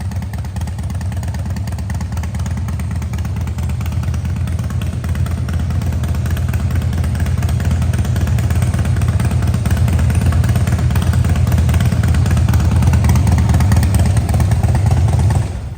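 2017 Harley-Davidson CVO Pro Street Breakout's V-twin running through Vance & Hines exhaust, slowly growing louder, then shut off near the end.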